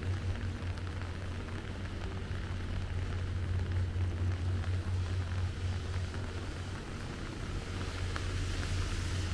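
Steady rain falling and pattering on surfaces, over a low steady hum. Near the end a car's tyres on the wet road grow louder as it approaches.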